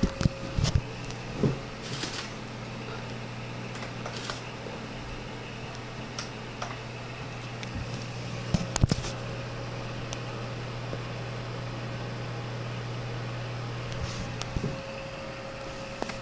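Desktop computer running with a steady low fan hum that starts about half a second in and cuts off abruptly near the end, with scattered clicks and knocks over it.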